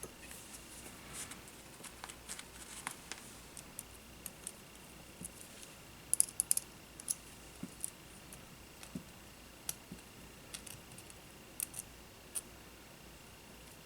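Scattered small clicks and taps of hand tools and small parts being handled at a workbench during a drone frame repair, loudest in a quick cluster about six seconds in. A faint steady high tone runs underneath.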